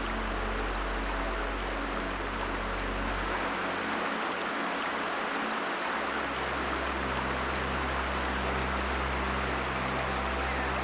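River water flowing over rocks, a steady rushing sound, with a low steady hum underneath that fades out a few seconds in and comes back at a different pitch about six seconds in.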